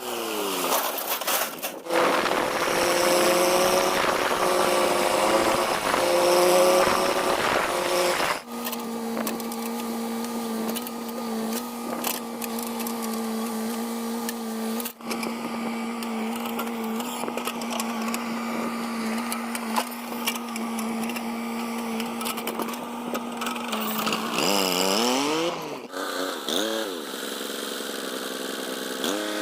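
Diesel engine of a JCB backhoe loader running under load, the pitch steady for long stretches and dipping and rising a few times as it revs. The sound breaks off abruptly several times between clips.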